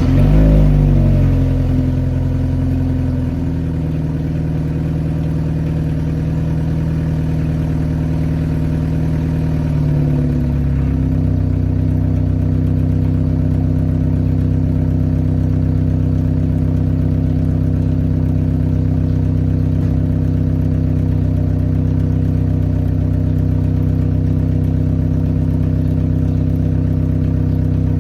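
BMW M car engine starting with a loud flare, then running at a raised idle that drops in two steps, about three and a half and ten and a half seconds in, before settling into a steady idle.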